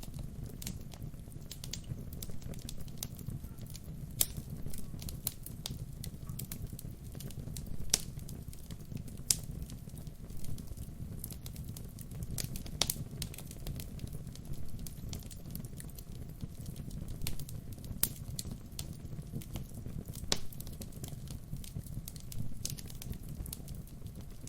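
Wood fire burning, with a steady low rumble of flames and frequent irregular crackles and sharper pops from the burning logs.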